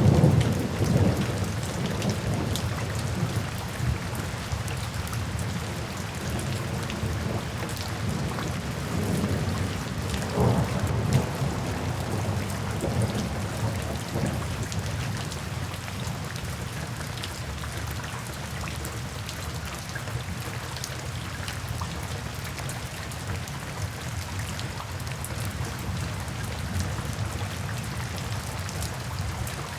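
Steady rain falling, with a low roll of thunder at the start that dies away over the first few seconds and another, weaker rumble about ten seconds in.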